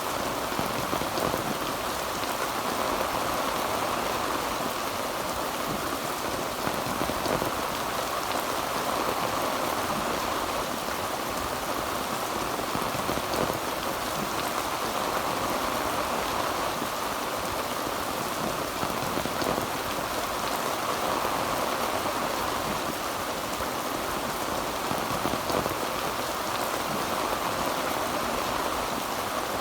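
Heavy rain drumming steadily on a tin roof, an even, unbroken downpour.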